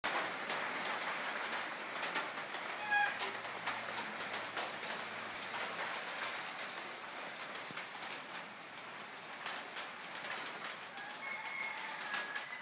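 Outdoor ambience: a steady rustling hiss with scattered light clicks, and short bird calls, one about three seconds in and another couple near the end.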